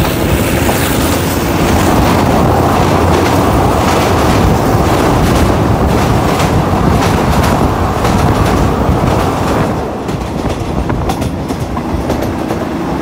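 Passenger train running at speed, its wheels clattering over the rail joints on a steel truss bridge, heard from an open coach window. About ten seconds in the clatter eases and gets quieter as the train comes off the bridge.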